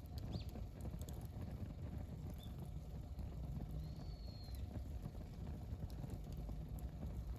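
Wood campfire burning: a steady low rumble with scattered small crackles and pops. There is a brief high whistle about four seconds in.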